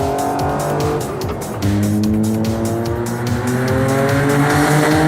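Toyota hydrogen-engine Corolla's turbocharged three-cylinder accelerating hard under load, revs climbing, dropping with an upshift about a second and a half in, then climbing again.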